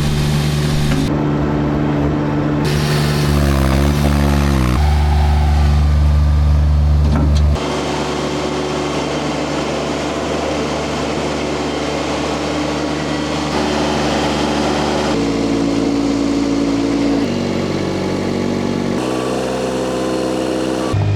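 Engine of a tracked mini skid steer running under changing load. Its pitch shifts abruptly several times and dips and recovers a few seconds in.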